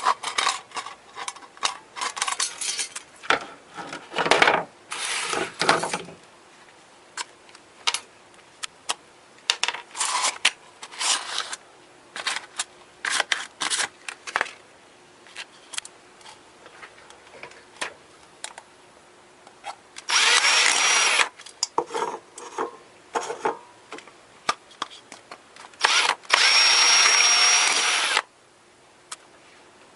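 Small electric drill running in two short bursts, about a second and then about two seconds long, each with a thin high whine, among scattered clicks, knocks and rubbing of small parts being handled.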